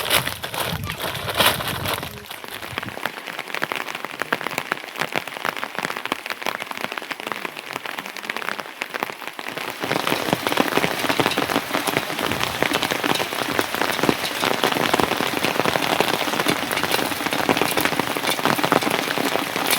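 Steady rain falling, a dense spatter of drops that gets heavier about ten seconds in.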